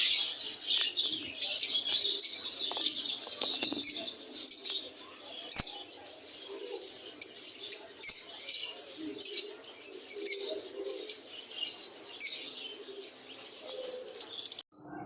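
A flock of lovebirds chirping: a busy stream of short, shrill high calls, about two a second. The calls stop abruptly near the end.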